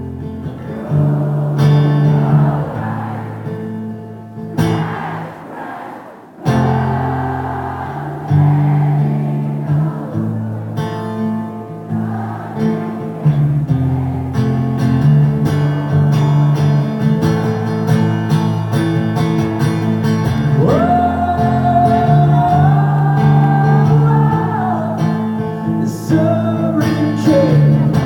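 Acoustic guitar strumming chords, with singing over it; about twenty seconds in, a voice holds a long note that steps up once and falls away near the end.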